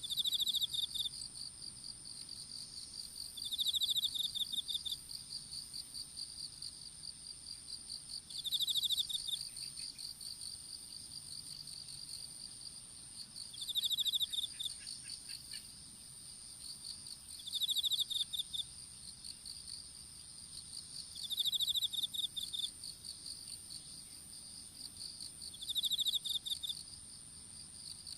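Several insects singing together. There is a continuous high, even trill and a lower pulsing trill, and over them a louder chirping phrase of about a second that repeats roughly every four seconds.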